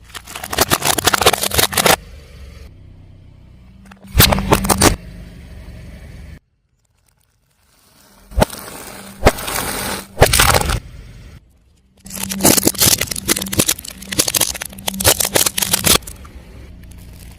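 A car tyre rolling over and crushing crunchy objects: repeated loud bursts of crackling and crunching, each lasting about one to four seconds, with the car's engine running low between them. The sound cuts out completely for about a second midway.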